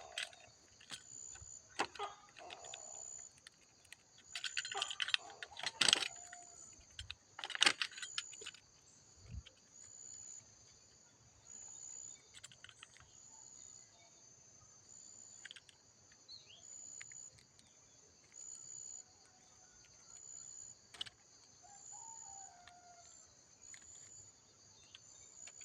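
Crickets trilling steadily in a high pulsing buzz, about one pulse a second. During the first eight seconds, louder crackling and rustling from hands handling the plant.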